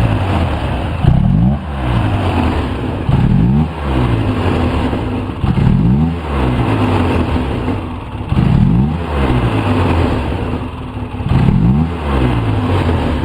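2004 Polaris Sportsman 700 twin-cylinder engine being revved in short throttle blips, about five of them two to three seconds apart, each rising and falling back to idle.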